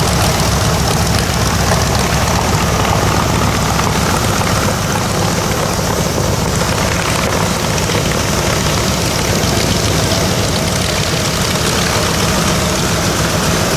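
The Nakajima Sakae twin-row radial engine of an A6M5 Zero fighter, running steadily on the ground with its propeller turning.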